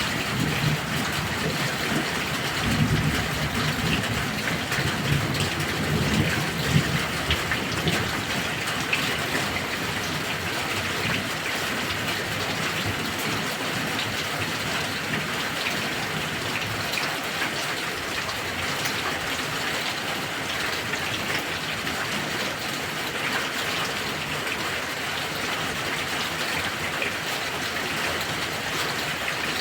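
Heavy rain falling steadily in a thunderstorm, with a low rumble of thunder over the first several seconds that dies away, leaving the even hiss of the rain.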